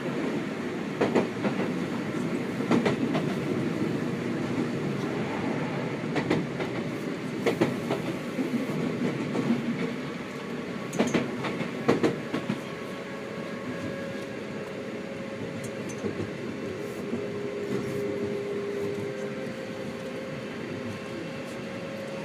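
Seibu 6000 series electric train running at speed, heard inside the carriage: a steady rolling rumble, with the wheels clicking over rail joints every couple of seconds in the first half. A thin steady tone joins in the second half.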